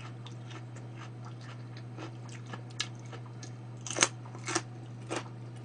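A person chewing and biting food close to a microphone: scattered wet clicks and small crunches, loudest in a few bites about four to five seconds in, over a steady low hum.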